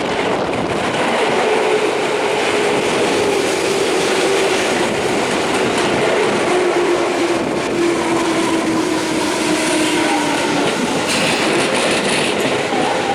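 Electric commuter train running along the platform. Its wheels clack over the rail joints, and its motor whine falls steadily in pitch as the train slows.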